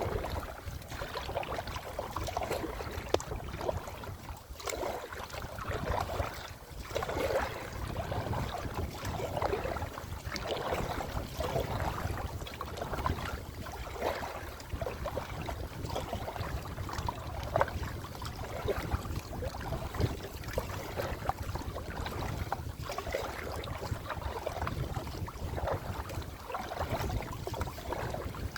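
Water splashing and lapping around a kayak as it is paddled, in irregular short splashes, with wind rumbling on the microphone.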